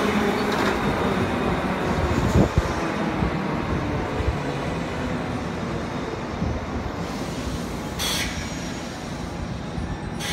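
JR West 201 series electric train running along a station platform: a steady noise of wheels and motors on the rails, with a short knock about two seconds in and a brief hiss about eight seconds in.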